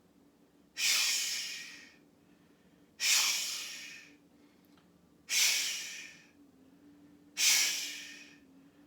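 Four forceful "shh" breaths pushed out through the mouth, about two seconds apart, each starting sharply and fading away over about a second: the qigong healing sound for the liver.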